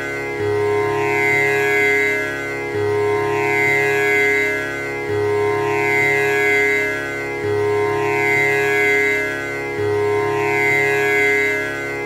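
Tanpura drone: its strings are plucked in a steady repeating cycle that comes round about every two and a half seconds, each pass swelling and fading into a continuous drone.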